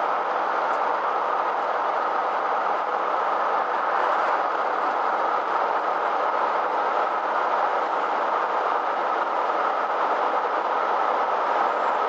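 Steady road and engine noise heard inside a moving vehicle's cabin while it drives along, an even rush with no breaks or changes.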